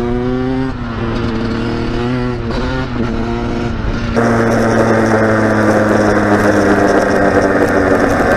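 Two-stroke dirt bike engine under way, revving up in the first second and then running at steady throttle; about four seconds in it gets louder, with more rushing noise over the engine tone.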